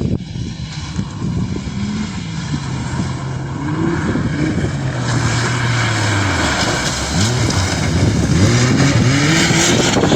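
Engine of an off-road rally competition vehicle approaching, growing louder, its pitch wavering and then rising again and again in quick succession as it revs up through the gears.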